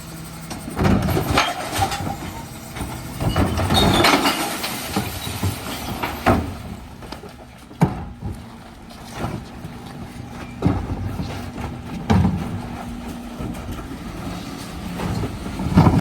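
Dennis Elite 6 refuse lorry running with a steady hum from its engine and hydraulics, broken by repeated loud crashes and clatter as recycling bins of plastics, cans and glass are tipped into the body.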